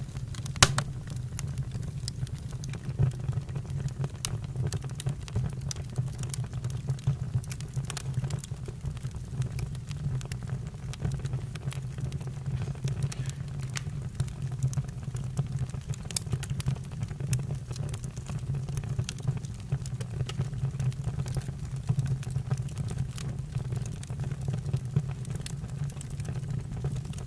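Campfire burning: a steady low rumble of the fire, with scattered sharp crackles and pops of burning wood. One louder pop comes less than a second in.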